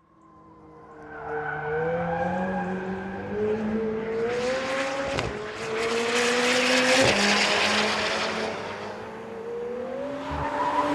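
McLaren 720S twin-turbo V8 running hard, its pitch rising and falling as it revs up and down, fading in at the start. A rushing noise, typical of tyre squeal, joins in the middle, and there is a loud rush near the end.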